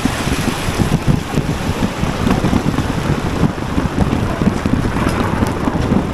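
Wind buffeting the microphone of a moving bicycle, a steady low rumbling flutter.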